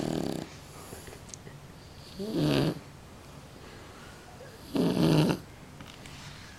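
Small shar-pei dog snoring in its sleep. Each snore is a short rasp of about half a second, coming about every two and a half seconds.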